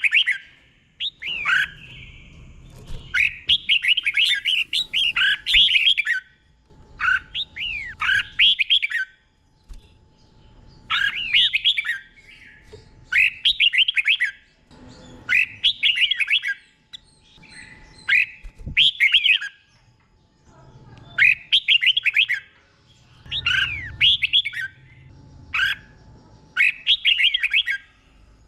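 Red-whiskered bulbul singing its doubled 'bernle' song: short phrases of quick, sweet whistled notes sliding up and down, each about a second long and repeated about every two seconds.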